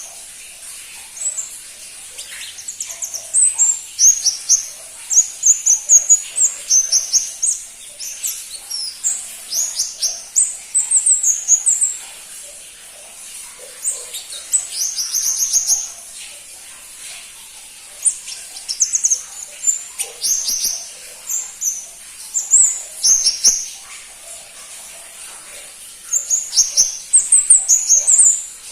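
Pentis pelangi (crimson-breasted flowerpecker) calling: very high, thin chirping notes in quick runs, broken by pauses of a second or two.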